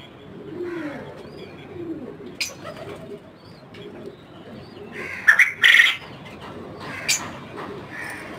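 Birds calling: low, repeated calls, with a few loud, shrill chirps between about five and six seconds in and another just after seven seconds.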